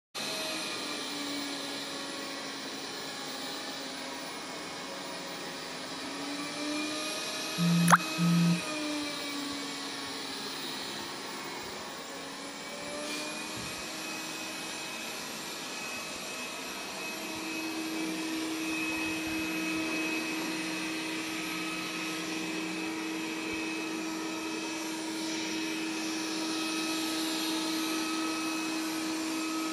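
Robot vacuum cleaner running with a steady motor hum and whine. The pitch wavers up and down at first, then settles into an even tone about halfway through. Two short, loud tones with a click sound about 8 seconds in.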